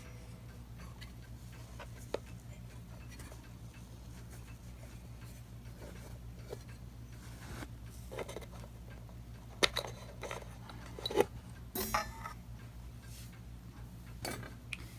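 Small metal clicks and taps as the washer and nut are worked off and the gong is lifted out of an antique mantel clock. A few sharper knocks come about ten to twelve seconds in, over a steady low hum.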